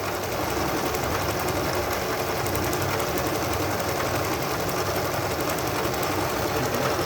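Janome electric sewing machine running steadily at speed, the needle stitching continuously without a pause.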